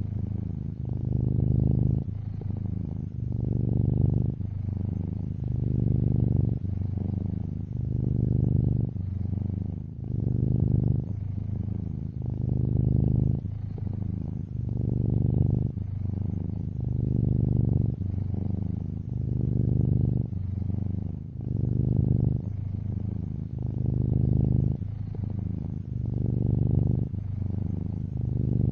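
Domestic cat purring close up: a low, steady purr that swells and eases about every two seconds in time with the cat's breathing.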